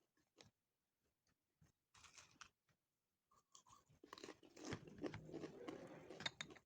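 Close-up chewing of crunchy food: a few faint, scattered crunches at first, then steadier, louder crunching and chewing from about four seconds in.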